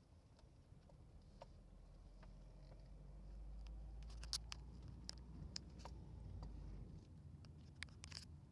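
Faint sharp knocks and clicks from the steering of a 2007 Ford Focus SE, heard from inside the cabin, the sign of the steering-wheel knock the owner is documenting. Several come scattered through, the loudest about four seconds in and a cluster near the end, over a low rumble that swells in the middle.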